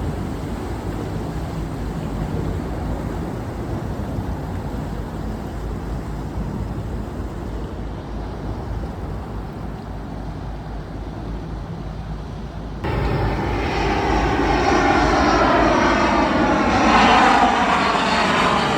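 A steady engine and wind hum, then after an abrupt cut about 13 s in, a louder engine passing close by, its pitch sweeping as it goes past and loudest near the end.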